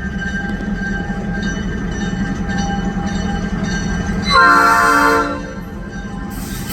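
A diesel switching locomotive, an EMD GP38-2, running steadily, then sounding its horn in one loud blast of about a second, about four seconds in. A short burst of hiss follows near the end.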